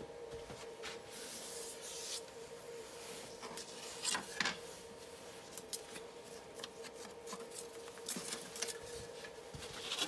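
Light scraping and rubbing on wood in short, irregular strokes, over a faint steady hum.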